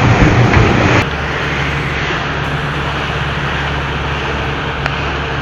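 A boat's outboard motor running steadily. Loud rushing wind and water noise fill the first second, then the sound cuts abruptly to a steadier, lower engine hum.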